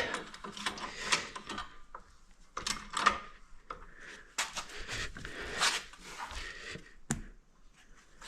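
Irregular scraping, rubbing and knocking of hand work on an ATV's frame and engine parts, with a sharp knock about seven seconds in.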